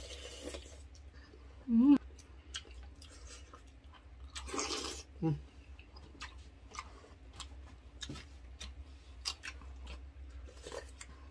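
Close-up eating sounds: chewing with scattered clicks of utensils on bowls. A short rising hum of appreciation comes about two seconds in.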